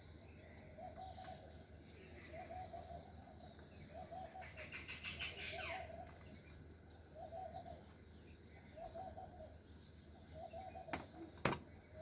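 A dove cooing over and over, faint, one short call about every second and a half, with smaller birds chirping now and then. Two sharp knocks come near the end.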